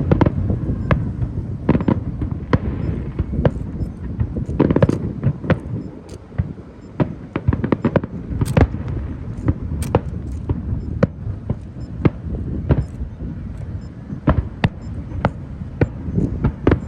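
Fireworks going off: a rapid, irregular run of sharp bangs and cracks, several a second, over a continuous low rumble of explosions.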